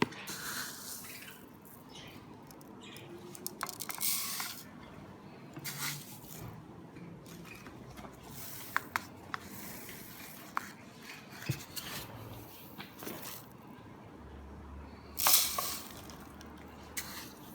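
Budgie seed mix poured into small D-cup feed dishes, in several short rushing pours, with light clicks and knocks of the dishes in between.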